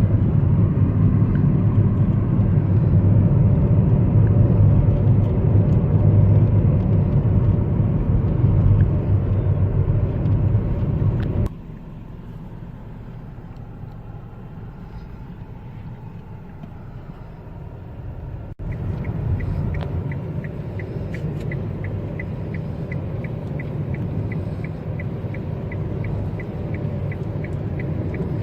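Car in motion heard from inside the cabin: a loud low road-and-engine rumble that suddenly drops to a quieter rumble, then returns with a turn-signal indicator ticking steadily, about twice a second, through the last part.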